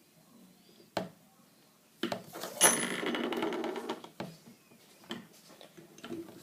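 A sharp click, then about two seconds of metallic rattling and clattering, followed by a few small clicks, as the drill and its bit are handled during a bit change.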